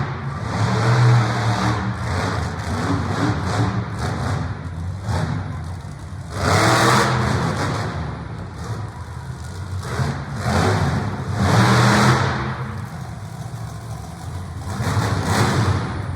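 Monster truck engine running and revving hard in repeated surges, the loudest about six, eleven and fifteen seconds in.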